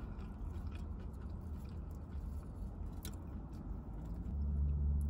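Close-up mouth sounds of a person biting and chewing a fried chicken nugget and fries, with a few small crunches and clicks, over a steady low hum that grows louder about four seconds in.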